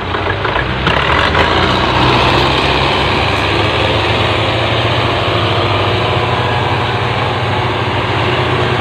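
Belarus tractor's diesel engine running steadily, growing louder about a second in and then holding steady.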